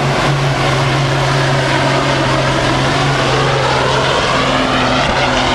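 Diesel pulling truck's engine at full throttle under heavy load, dragging the weight sled. It runs at a steady pitch, then shifts in pitch from about three seconds in.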